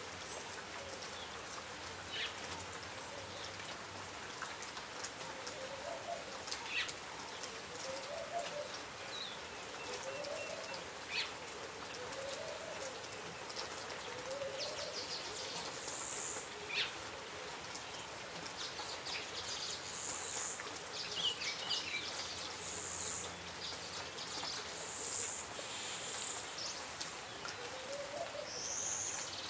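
Steady rain falling on large Strelitzia leaves, with scattered drip ticks. A bird repeats a short low note about every two seconds near the start and again near the end, and high chirps come in during the second half.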